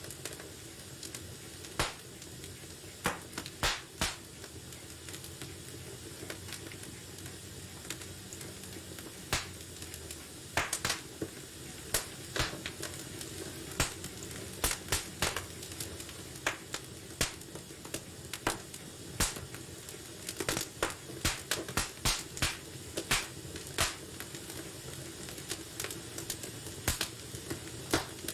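Wood fire in a fireplace crackling: irregular sharp pops and snaps, some in quick clusters, over a steady low rumble and hiss of burning.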